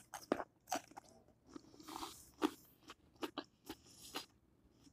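A person chewing and biting food from a seafood boil: a string of short, irregular crunches and wet mouth clicks, fairly quiet.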